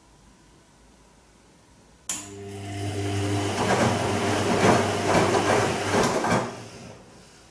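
Bosch Serie 2 VarioPerfect washing machine's drum turning in a gentle silk wash cycle. The motor starts with a hum about two seconds in, and laundry and water swish in the drum in regular strokes for about four seconds. Then it slows and stops, one tumble of the drum between rests.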